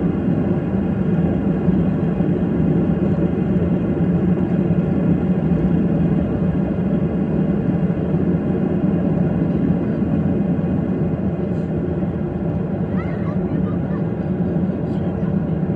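Airplane noise during takeoff: a steady, loud, low rumble of engines and airflow that holds even throughout.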